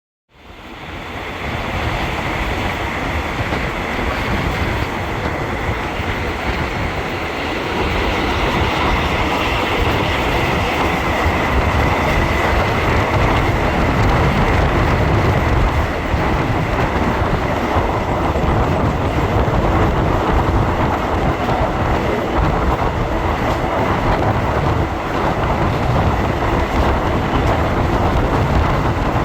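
Train running along the track: a steady rumble and rattle with a thin, steady whine above it, fading in over the first second or two.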